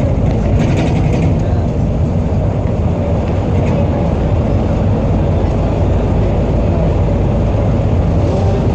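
Airport shuttle train running, a steady low rumble with a faint hum riding above it.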